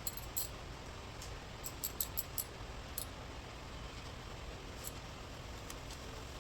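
Scattered light clicks and ticks of small parts and tools being handled during hand work, with a quick run of about five clicks around two seconds in, over a low steady hum.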